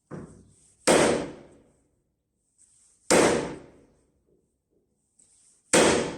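Hammer blows on wood: a light knock, then three loud sharp strikes about two seconds apart, each ringing out briefly.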